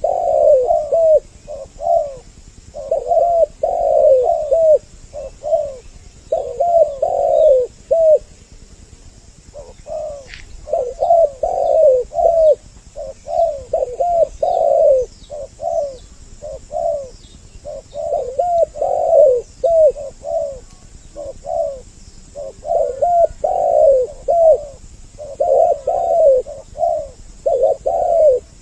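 Spotted doves cooing over and over in a male-and-female double-voice lure recording: phrases of low coos come one after another with short gaps, the voices overlapping. A few faint high chirps from another small bird can be heard between them.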